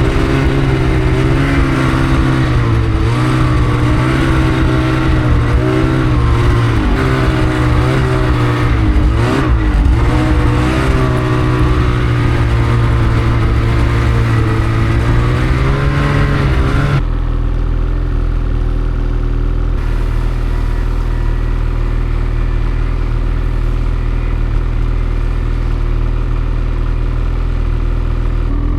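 Snowmobile engine running close by, its pitch rising and dipping with the throttle. About two thirds of the way through it changes abruptly to a steady, even run.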